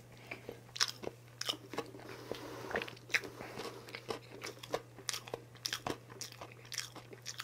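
Close-miked chewing of a mouthful of chocolate cake: soft, wet mouth clicks and small crunches, several irregular ones a second, over a faint steady low hum.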